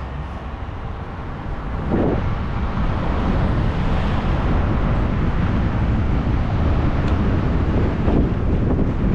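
Motorcycle running on the move, with wind buffeting the microphone; the noise grows louder about two seconds in and then stays at a steady level.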